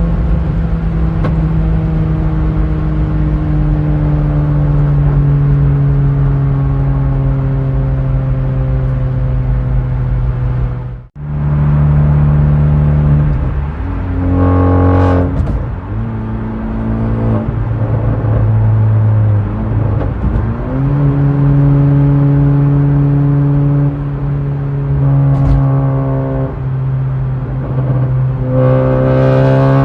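Tuned Honda Civic FK2's turbocharged four-cylinder engine running, its note drifting slowly down for about ten seconds before a sudden break. The engine speed then changes from segment to segment, with a short rev rise in the middle, and revs climb steeply near the end under acceleration.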